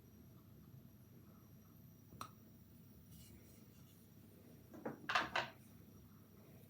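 Quiet kitchen with a faint steady hum: one sharp click about two seconds in, then a short cluster of three clattering noises about five seconds in, from a pan or utensils being handled.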